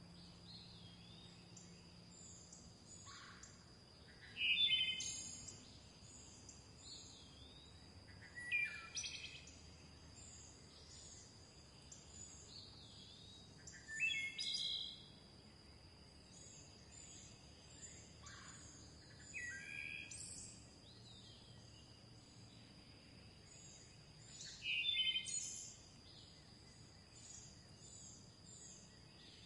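Birdsong: one bird repeats a short, louder song phrase about every five seconds over a background of many faint, high chirps from other birds, with a steady high tone underneath.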